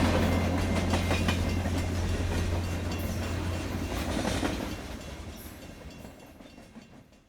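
BNSF freight train rolling past, its wheels clicking over the rail joints under a steady low hum. The sound fades away over the last few seconds.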